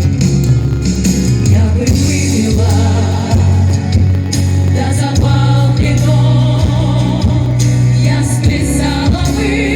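Female vocal ensemble singing with vibrato over an instrumental accompaniment with a steady bass line.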